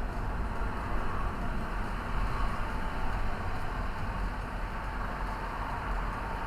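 Steady engine and road noise of a car, an even rumble.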